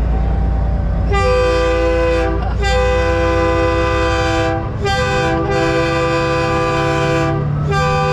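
A truck-mounted train horn sounding a chord of several notes in five blasts, the third one short, over the steady low rumble of a diesel semi truck's engine.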